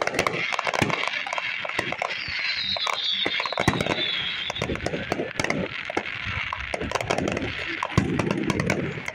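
Fireworks display: many aerial shells bursting in quick, irregular succession, sharp bangs over continuous crackling.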